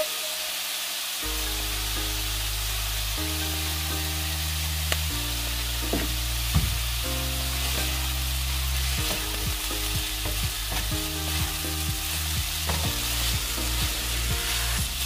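Rice frying and sizzling in a skillet while a slotted spatula stirs and tosses it. The spatula clicks and scrapes against the pan, more often in the second half.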